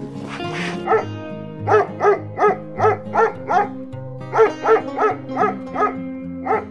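A dog barking in two quick runs of about five or six barks each, nearly three barks a second, with a last bark near the end, over background music.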